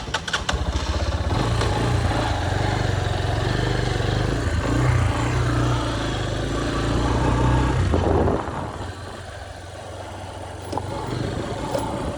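Motorcycle engine running with a steady low hum, then dropping off sharply about eight seconds in.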